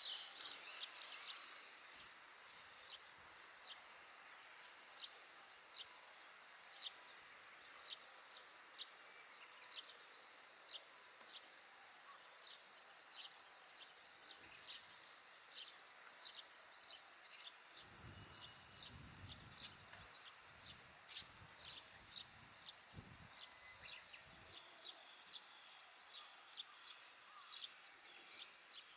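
Eurasian tree sparrow giving short, high, repeated chirps, about one or two a second, typical of a young sparrow begging for food. A low rumble joins in for several seconds about eighteen seconds in.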